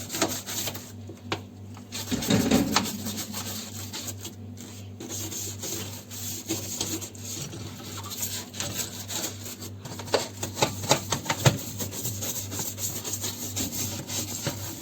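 Scrubbing and rubbing inside a dishwasher's tub: an irregular run of scraping strokes and small clicks over a steady low hum.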